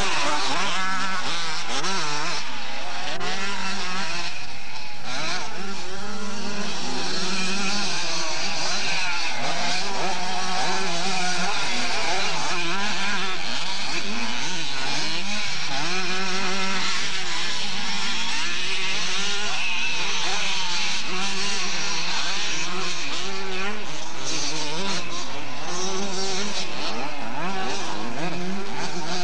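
Several motocross bikes racing together, their engines revving up and down and overlapping throughout.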